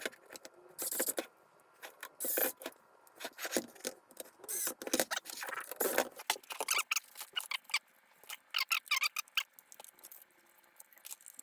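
Plastic parts of a car instrument cluster being handled and pressed into place by hand: an irregular run of small clicks, taps and short scrapes.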